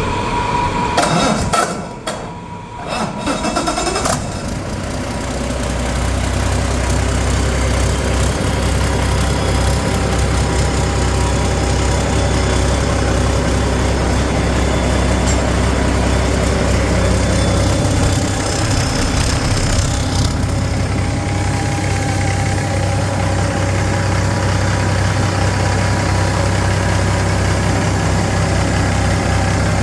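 2006 Cummins ISX 15-litre turbocharged six-cylinder diesel engine starting up during a test run. Its sound is uneven for the first few seconds, then it settles into a steady idle.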